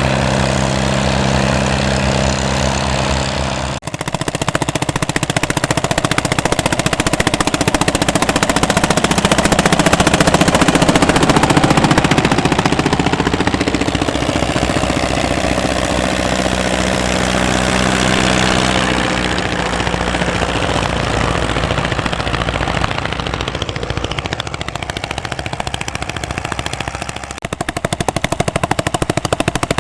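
Vintage tractor engines working under ploughing load. About four seconds in, the sound cuts from a steady engine note to a rapid, sharp popping exhaust beat that continues to the end.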